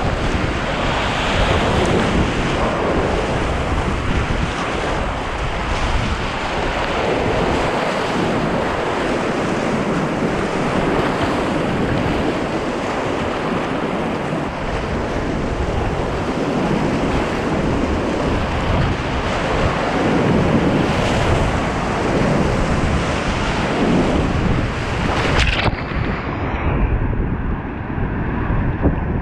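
Heavy high-water whitewater rapids rushing loudly and steadily, with buffeting on the microphone. About 25 seconds in, the high hiss cuts off suddenly and the rush turns muffled.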